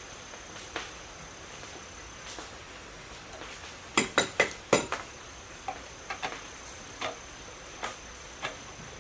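Four sharp metallic clinks in quick succession about four seconds in, like tools or small metal parts being knocked together, with lighter scattered clicks before and after. A steady high-pitched insect drone runs underneath.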